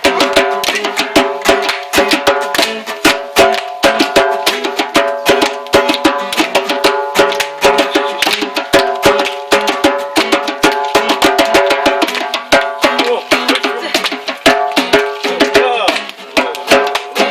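Acoustic guitar strummed in a quick, steady rhythm, with djembe hand-drumming throughout.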